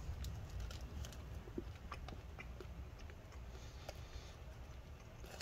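Faint chewing of a soft, chewy dried-fruit bar: sparse small clicks and ticks over a low steady hum.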